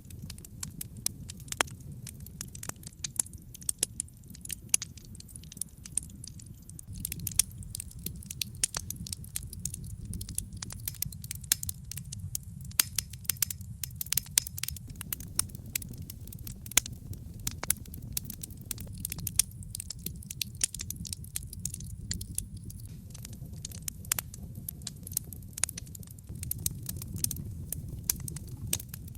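Wood logs burning in a fireplace: constant irregular crackles and pops over a low steady rumble of the flames.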